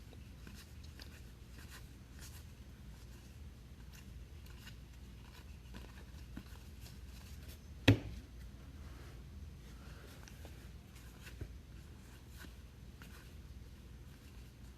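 Trading cards being handled and sorted at a table, with faint rustling and light ticks and one sharp knock about eight seconds in.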